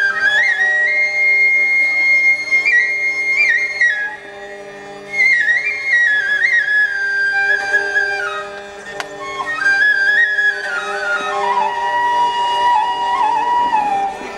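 Background music: a solo flute plays a slow melody with ornamented slides over a steady drone.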